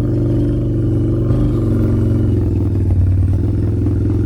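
Motorbike engine running steadily as the bike rides along, a dense hum of engine tones with small shifts in pitch.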